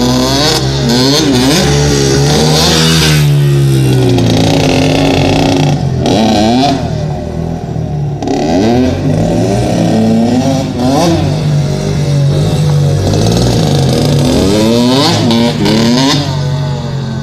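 Dirt bike engine revving hard and easing off again and again as it is ridden, its pitch climbing in quick rising sweeps and falling back.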